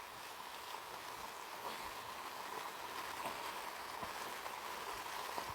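Steady rain: an even hiss with a few faint taps.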